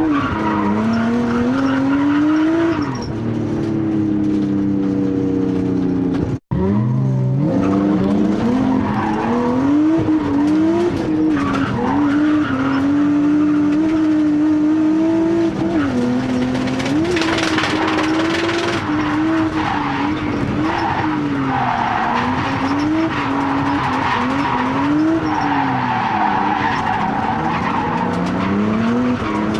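Nissan RB20DET turbocharged straight-six revving up and down through a drift, heard onboard, with long stretches of tyre squeal in the second half. The sound cuts out briefly about six seconds in.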